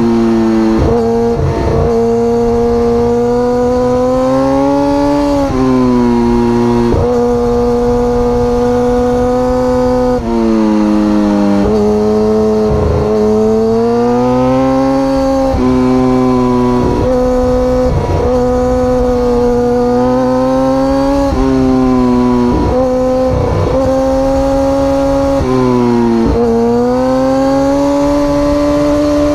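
Sport motorcycle engine running hard at high revs, its pitch climbing slowly and dropping back every few seconds, with wind rumble underneath.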